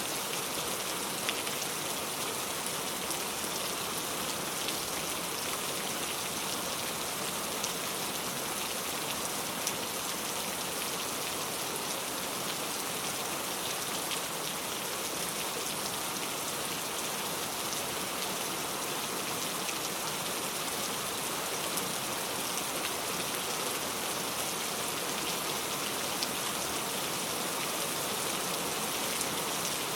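Steady rainfall, an even hiss of rain with scattered individual drop ticks.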